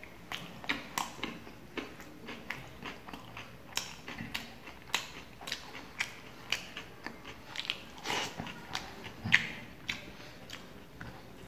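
Close-up chewing with wet mouth smacks as a person eats roti and lentil tarka by hand, sharp irregular clicks about twice a second.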